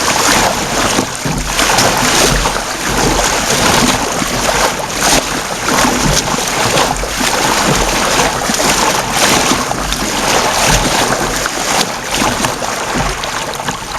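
Water splashing and sloshing as an Ocean Kayak Mysto is paddled on the sea, in uneven surges, with wind buffeting the microphone.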